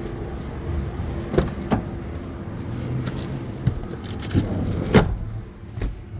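Workshop noise: a steady low hum with a handful of sharp knocks and clicks, the loudest about five seconds in.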